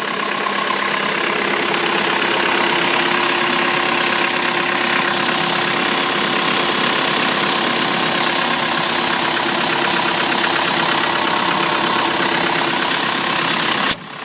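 Turbocharged John Deere diesel engine of a MultiQuip 45 kW standby generator idling steadily on low idle, around 1,000 RPM, not yet brought up to generating speed.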